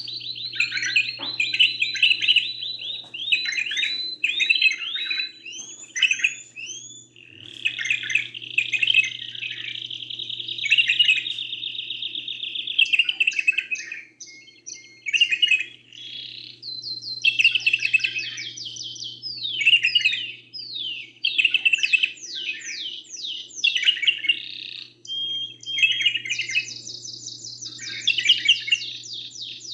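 Songbird singing a long, unbroken song of fast trills and rolling phrases, with rising and falling sweeps, over a faint steady hum.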